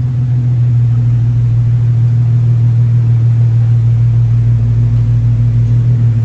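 Car engine running steadily with a deep, even drone, straight-piped or lightly muffled.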